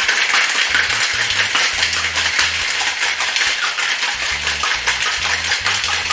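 Cocktail shaker with ice being shaken hard: a loud, fast, continuous rattle of ice cubes inside the shaker. Background music with bass notes plays beneath.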